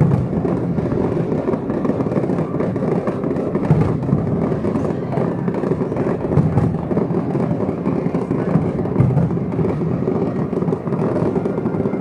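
Fireworks display going off in a dense, continuous barrage of bangs and crackling, with no let-up.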